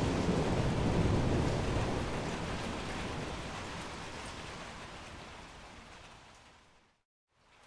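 Steady rain with a low thunder rumble dying away over the first couple of seconds. The whole storm sound then fades out to silence about seven seconds in and starts to fade back in just before the end.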